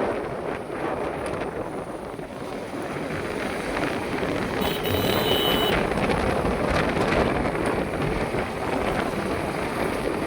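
Steady wind buffeting the microphone outdoors, with a faint high tone for about a second near the middle.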